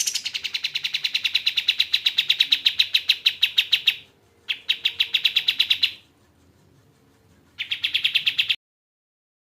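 Kapas tembak songbird calling in rapid machine-gun trills of about a dozen sharp notes a second. The first burst lasts about four seconds, then come two shorter bursts.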